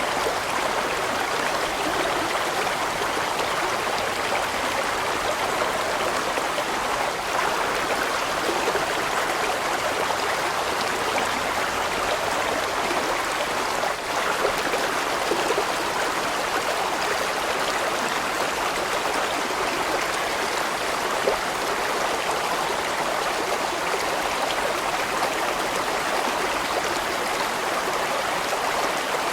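Large mountain stream flowing over rocks, a steady rush of water with no breaks.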